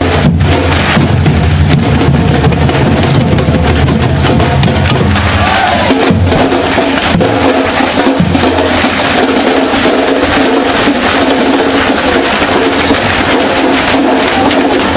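Loud percussion music led by drums, with rapid sharp hits throughout; the deep bass drops away about six seconds in.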